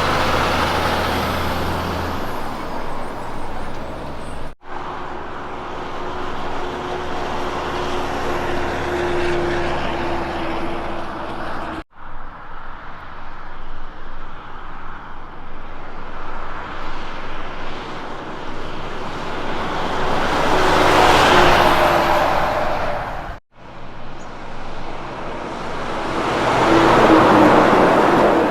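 Kenworth K200 road trains driving past: diesel engine drone and tyre noise that swell and fade as each truck passes, the loudest pass near the end. The sound breaks off abruptly three times where one clip cuts to the next.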